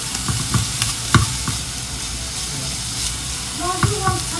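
Sausage sizzling as it fries in a pan, with a utensil knocking against the pan a few times about a second in.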